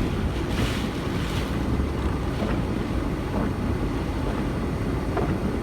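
A car driving in strong hurricane wind: a steady low rumble, with wind buffeting the microphone.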